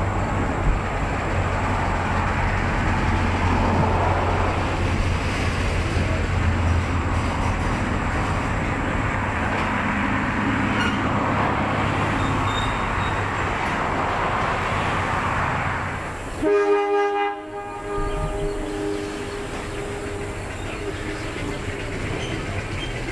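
A narrow-gauge diesel locomotive and its train running with a steady low engine drone and rumble. About two-thirds of the way through, the locomotive's air horn gives a short loud blast, followed by a longer, quieter horn note that dies away near the end.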